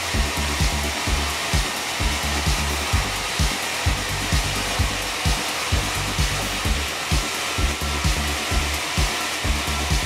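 A sawmill's large vertical band saw running steadily, mixed with background music that has a steady beat of about two low thumps a second.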